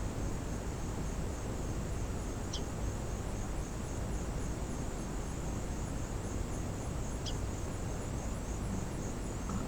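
Outdoor ambience: insects trill steadily in a high, rapidly pulsing drone over a low rumble of background noise. Two short, high downward chirps come about two and a half and seven seconds in.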